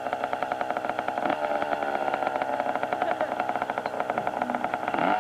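Small dirt bike engine running steadily just after starting, a fast, even train of firing pulses.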